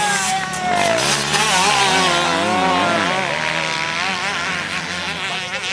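Several motocross motorcycle engines revving at once, their overlapping pitches rising and falling as the riders work the throttles.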